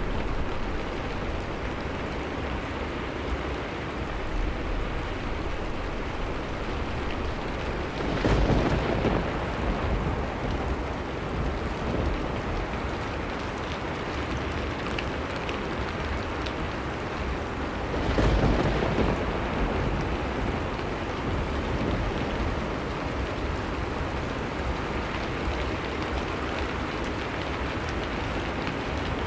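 Steady heavy rain, with two louder low swells of rumbling about eight and eighteen seconds in.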